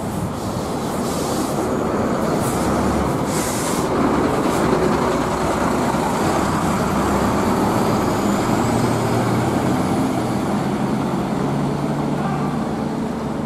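Heavy rain pouring down while a large bus's diesel engine runs close by, its low drone growing stronger about two-thirds of the way through. There are two short hisses of air in the first few seconds.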